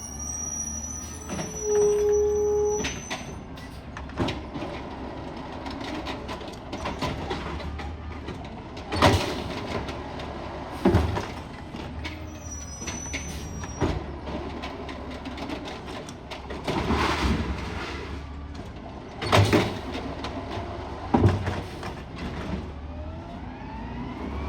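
Garbage truck engine running steadily, with a brief steady whine about two seconds in and a string of sharp bangs and knocks through the second half.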